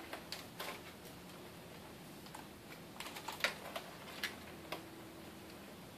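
Faint, irregular plastic clicks and taps as an aftermarket halo projector headlight housing is handled and pushed into the car's headlight opening against the front fascia.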